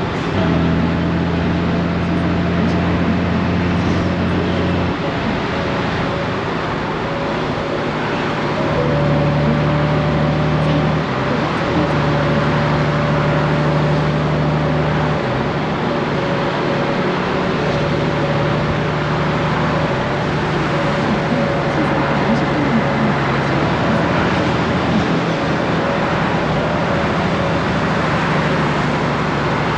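Honda Gold Wing's flat-six engine running under way, with wind and road noise; the engine note steps to a new pitch several times as the dual-clutch gearbox shifts and the speed changes.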